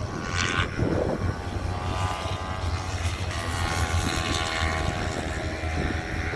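Racing motorcycle engines running at high revs on the circuit, several bikes at once, their pitch rising and falling as they go through the gears.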